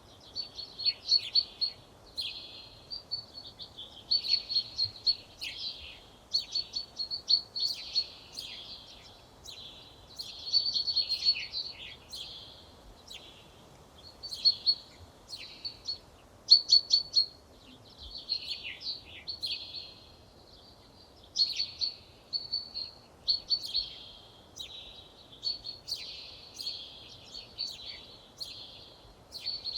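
Songbirds singing: a continuous run of short, high-pitched phrases of rapid notes, one after another with brief gaps.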